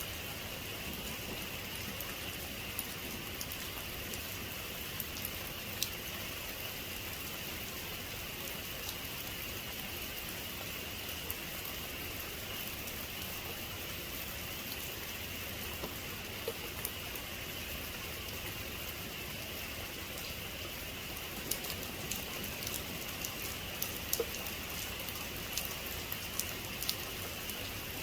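Steady heavy rain, with single drops ticking sharply on a nearby surface, more often near the end.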